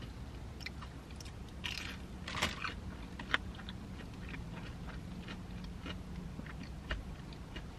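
Close-up mouth sounds of biting into and chewing a breaded fried mozzarella stick: soft crunches of the fried crust with wet clicks. The crunching is loudest about two seconds in.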